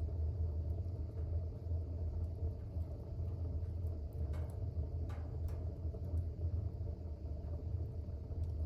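Fire burning in a fireplace: a steady low rumble of the flames, with a few faint crackles about halfway through.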